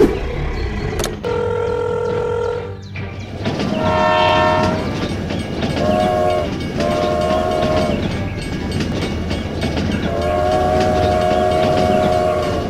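A horn sounding in about six separate blasts of different pitch and length, the longest about two seconds, over a steady low rumble.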